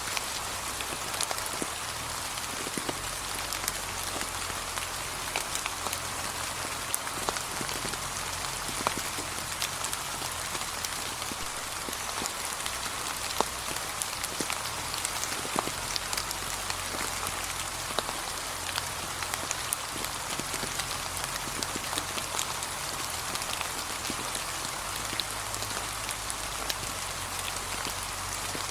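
Steady gentle rain falling on a path strewn with fallen leaves, a constant hiss with many separate drop taps scattered through it.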